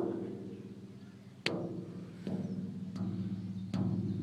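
A large old metal drum struck five times, each hit followed by a low, steady ringing that hangs on between the strikes.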